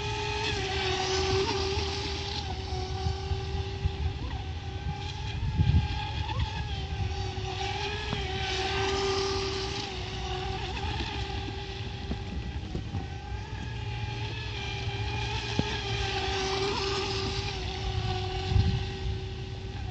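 Small RC boat's 3200 kV electric motor whining steadily as the boat runs on the water, its pitch dipping slightly now and then.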